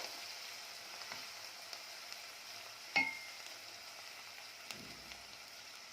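Chopped onion, celery and garlic sizzling in oil in a pot while being stirred, a steady frying hiss. About three seconds in comes one sharp clink against the pot, with a short ring.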